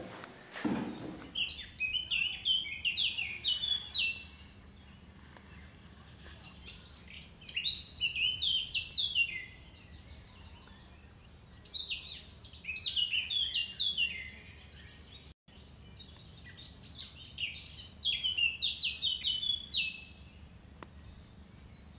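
A songbird singing several short phrases of quick, high chirping notes, with pauses of a few seconds between phrases, over a faint steady low hum.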